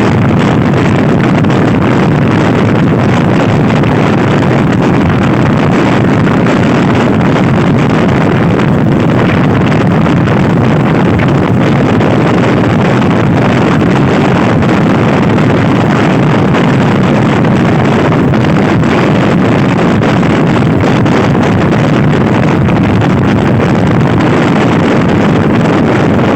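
Heavy wind buffeting on the microphone of a Honda Scoopy-i scooter ridden at speed, with the scooter's single-cylinder engine droning underneath. The noise stays loud and steady throughout, with no letup.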